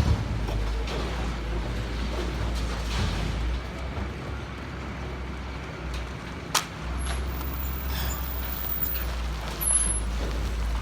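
Heavy diesel machinery running with a steady low rumble, and a single sharp knock about six and a half seconds in.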